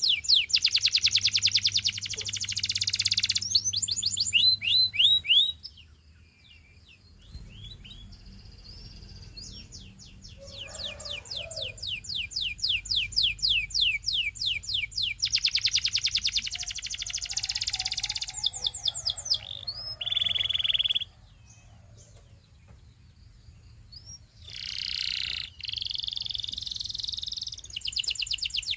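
Canary singing: long trills of rapidly repeated high notes and rolling tours, in phrases broken by short pauses.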